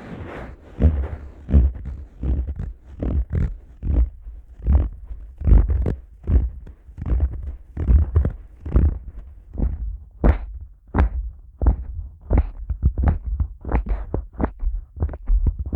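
Palms rubbing over the ears of a Neumann KU100 dummy head microphone in slow, rhythmic strokes, each with a deep muffled thud. About ten seconds in, it changes to fingers pressing and squeezing into the dummy head's ears, giving sharper, quicker strokes.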